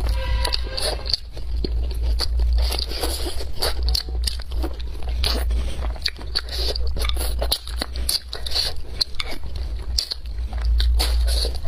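A person biting and chewing food close to the microphone: irregular crunching and wet mouth clicks over a steady low hum, with a brief pitched sound near the start.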